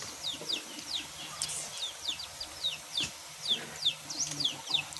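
Small birds chirping: a steady run of short, high chirps, each falling in pitch, about four a second.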